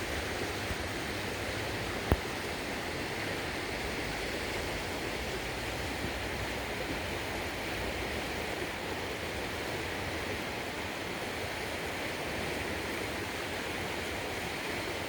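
Creek water rushing steadily, swollen after heavy rain, with a single sharp click about two seconds in.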